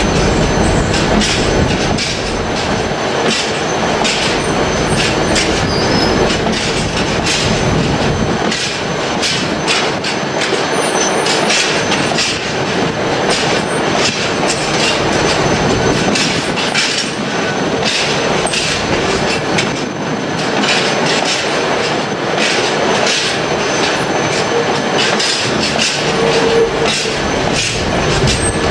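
Freight train wagons rolling past, their wheels clattering rhythmically over rail joints with a light squeal. A deep rumble dies away after the first few seconds.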